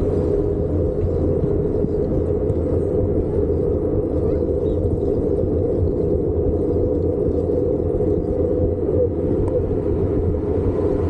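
Steady low rumble of riding a folding eBike: wind buffeting the camera microphone along with road noise.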